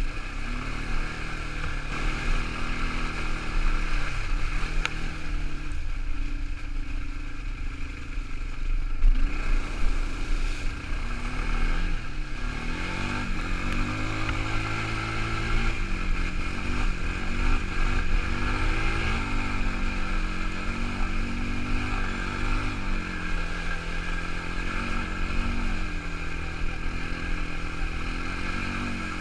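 Quad bike engine running while it is ridden, its revs rising and falling again and again as the throttle is worked, with a lower, quieter spell about a fifth of the way in.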